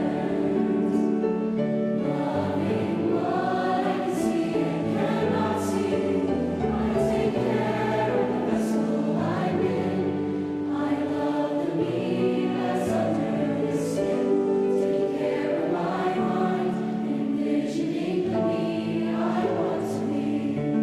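Youth choir singing in several parts, the voices sustained and shifting together.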